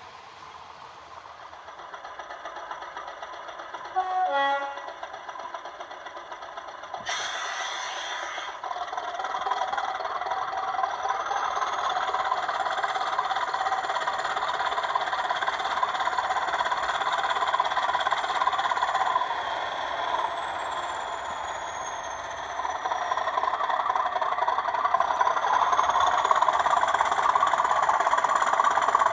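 Sound-decoder diesel locomotive sounds from model locomotives: a short horn blast about four seconds in, a burst of hiss about seven seconds in, then the diesel engine running and building in loudness, with thin whines gliding up and down.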